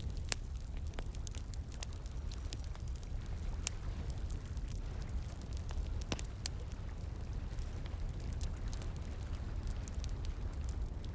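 Wood fire crackling, with many small sharp pops at irregular intervals, over a steady low rush of flowing water.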